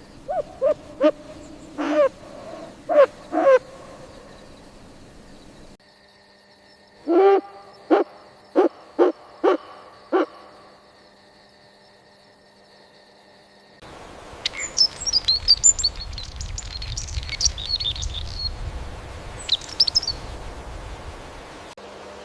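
Animal calls from separate recordings: two series of short low-pitched calls in quick groups, then, after a cut about 14 seconds in, high-pitched chirping over a low rumble.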